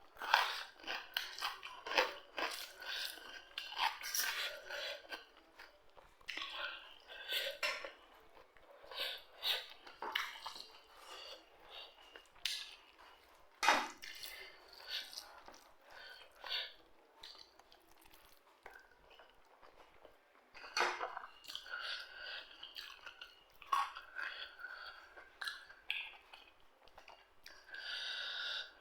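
A person chewing and crunching food close to the microphone, with irregular crunchy bites and sharp clicks and short quiet pauses between mouthfuls.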